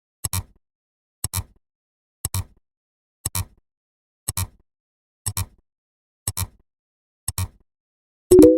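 Repeating sound effect: a short double click about once a second, each click marking the next number in a count. Near the end comes a louder click with a brief low chime-like tone.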